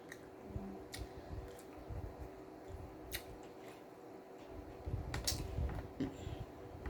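Faint steady hum with a few soft, sharp clicks and low rumbles, a small cluster about five seconds in.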